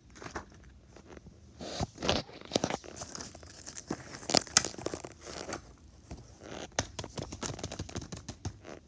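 Fidget toys and crinkly plastic packaging being handled: irregular crinkling, crackling and small clicks, loudest about two seconds in and midway through.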